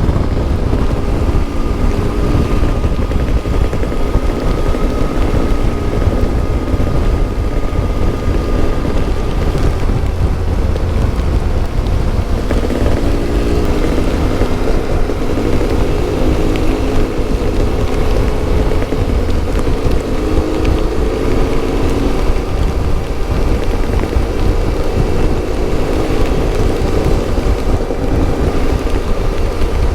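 Yamaha Ténéré 700's CP2 parallel-twin engine running through an Akrapovic exhaust under way. The engine pitch rises and falls as the throttle is worked.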